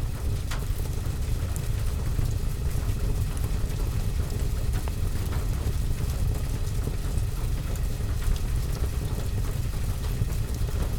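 Steady rain on a roof and window mixed with a fireplace: an even low rumble under a soft hiss, with scattered small ticks and crackles.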